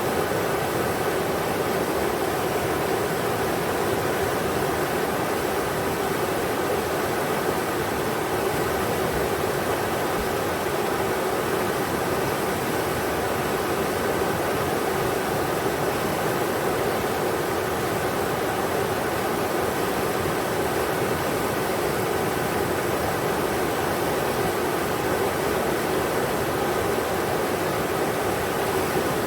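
Englishman River rushing over rocks: a steady, unbroken roar of moving water.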